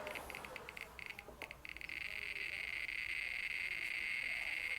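Geiger counter clicking, the clicks coming faster and faster until they merge into a continuous buzz about two seconds in. It is held to an old aircraft instrument that is radioactive, a high count that later reads about 80 millirem per hour.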